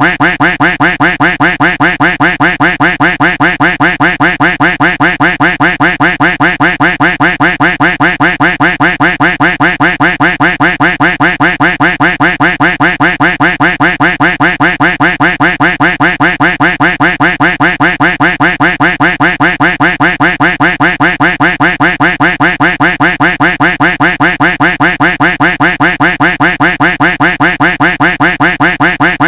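A duck quack sound effect looped without a break, the same quack repeated several times a second.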